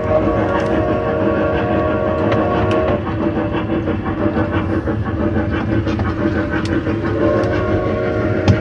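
Solar-powered zoo tour train running on its ride, a steady hum and rumble with faint ticking. The hum drops in pitch about three seconds in and climbs again near the end, and a brief knock comes just before the end.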